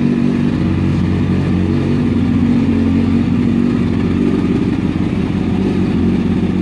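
Kawasaki Ninja motorcycle engine running at steady revs.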